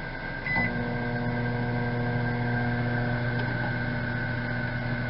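Microwave oven beeps once as it is started, then runs with a steady hum. The owner calls it quiet.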